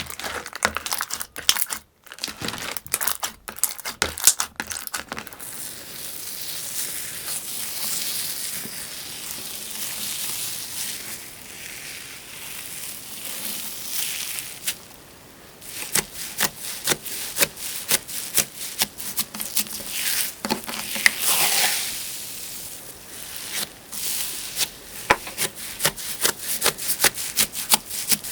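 Slime being squeezed, poked and stretched by hand, giving crackling, crinkly sounds and quick sticky pops. It starts with a burst of rapid pops, settles into a steadier crinkling for several seconds, and near the middle turns to a fast run of pops again.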